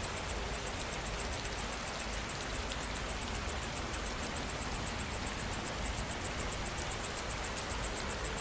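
Steady rain falling, an even hiss, with an insect chirping rapidly and high-pitched at about six chirps a second.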